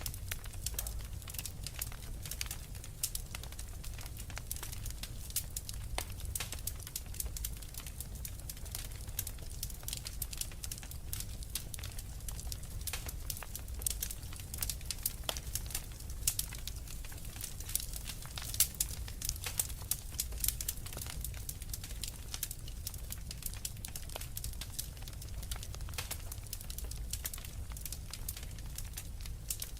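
Wood fire crackling in a fireplace: frequent, irregular sharp pops and snaps over a low, steady rumble.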